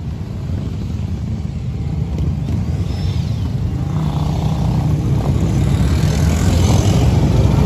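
Motorcycle engines running, a low rumble that grows steadily louder.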